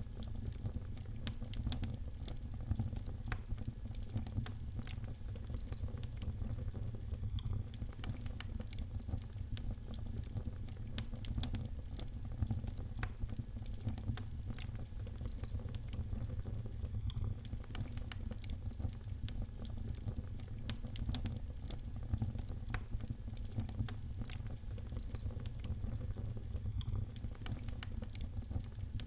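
Wood fire crackling in a fireplace: frequent small pops and snaps over a steady low rumble of the flames.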